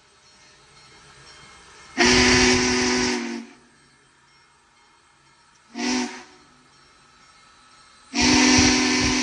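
Union Pacific Big Boy 4014's steam whistle blowing a chord of several notes in three blasts: long, short, long.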